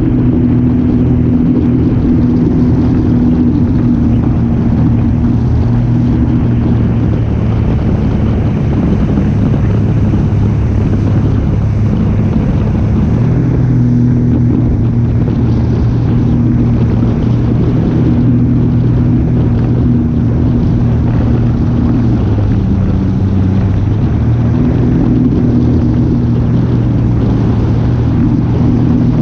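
A motor engine running steadily, a loud low hum over a rushing haze, its pitch shifting slightly now and then.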